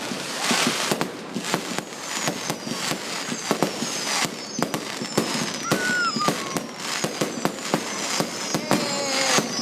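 Fireworks display: a rapid, continuous barrage of bangs and crackles, with several high whistles falling in pitch through the middle and near the end.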